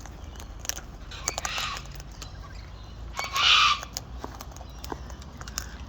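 Wild white cockatoo calling harshly: a short rasp about a second and a half in, then a louder screech lasting about half a second past the midpoint, with scattered small clicks between.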